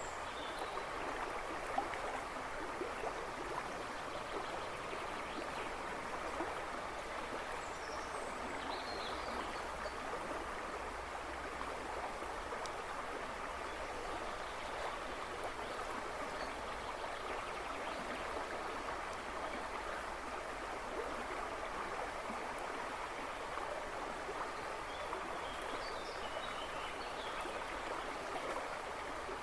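River rushing and babbling in a steady, unbroken flow. A few faint bird chirps sound in the background, about a third of the way in and again near the end.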